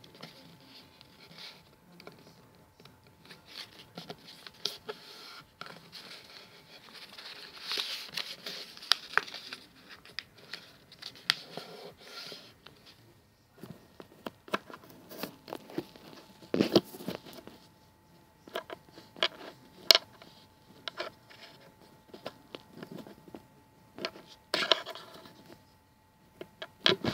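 A sheet of A4 paper being folded and creased by hand: irregular rustling and crinkling with sharp taps and scrapes as folds are pressed flat.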